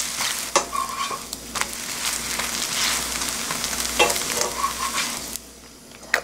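Battered kelp pancake frying in oil in a nonstick pan, sizzling steadily, with a few scrapes and taps of the spatula pressing and turning it. The sizzling cuts off suddenly about five seconds in, and a single sharp tap follows near the end.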